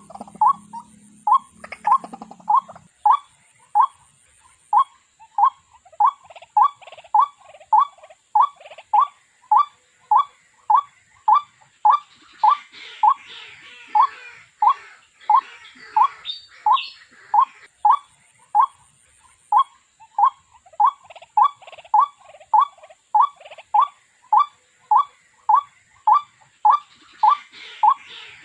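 A waterhen calling a long, monotonous series of short 'kook' notes, evenly repeated a little under two times a second.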